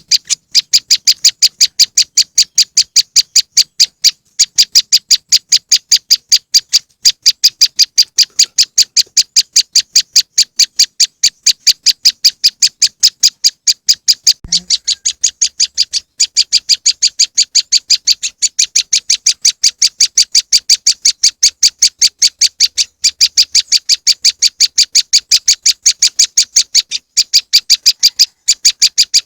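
Prenjak lumut lure call: a fast, even series of sharp, high chirps, about four a second, repeated without let-up except for a few very short breaks.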